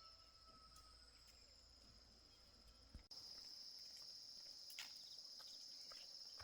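Faint, steady high-pitched chirring of insects such as crickets, which gets abruptly louder about three seconds in, with a few light clicks.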